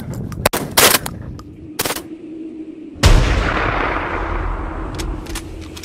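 A quick string of shotgun shots at flying geese, about four in the first three seconds, the last and loudest about three seconds in with a long tail after it. Strong wind rumbles on the microphone throughout.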